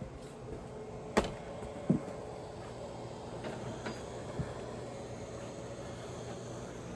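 Two sharp clicks, then the faint steady hum of the 6.7 L Power Stroke's electric fuel pump running as the key is cycled to prime the fuel system and purge air after repairs.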